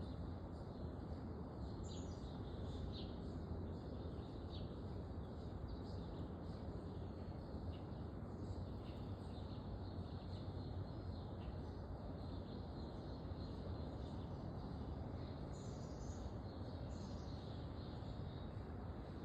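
Short, faint chirps and calls of small backyard birds, scattered irregularly, over a steady low background rumble.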